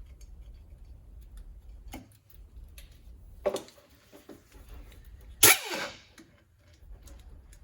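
Hand tools being handled against metal: a few light clicks, a knock about three and a half seconds in, then one sharp, loud clank with brief ringing about five and a half seconds in, over a steady low hum.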